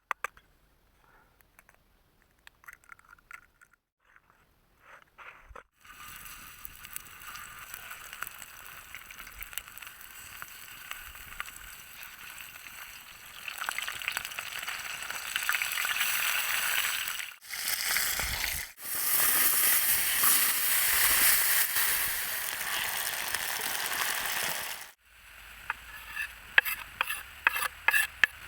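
Food sizzling as it fries in a pan over a campfire: a dense hiss that comes in after a few seconds of light clicks and taps, grows louder, and breaks off abruptly more than once. Near the end come sharp taps and clicks.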